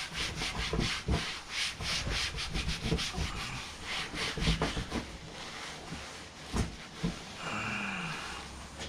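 A sugar soap wipe rubbed back and forth over a sanded laminate cabinet door, in quick scrubbing strokes of about four a second that slow and thin out after about five seconds.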